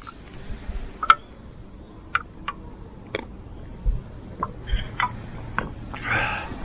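Camping gear being handled: scattered light clicks and knocks, a few with a short ring, and a rustling about six seconds in.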